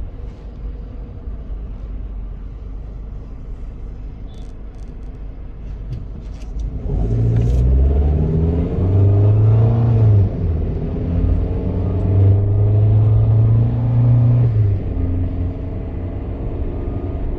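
Car engines in traffic: a low steady rumble while stopped, then from about seven seconds in a louder engine drone that rises and shifts in pitch as the traffic pulls away and accelerates.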